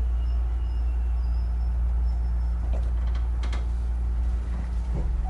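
Onboard running sound of a Hankyu 9000 series electric train with Toshiba IGBT VVVF drive: a steady low rumble from the wheels and running gear, with a few sharp clicks about three seconds in. The rumble thins near the end.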